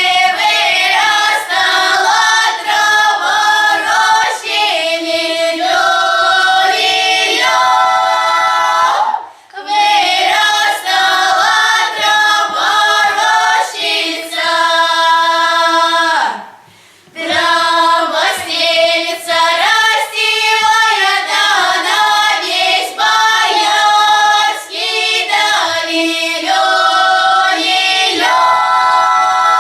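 A choir of young voices singing a Russian folk song, mostly or wholly unaccompanied, in long sung phrases with brief breaths between them about nine seconds in and again around sixteen seconds.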